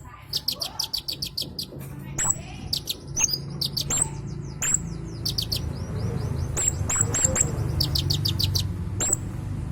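A konin songbird singing hard: sharp, very high chips and quick rattling trills, repeated again and again, over a low steady hum.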